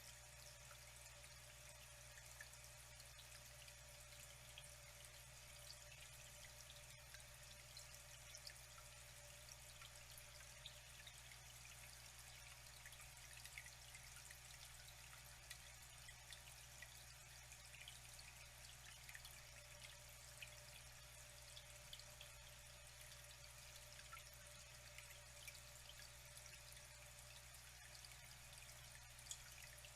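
Water flowing and trickling faintly and steadily, with many small drips and splashes.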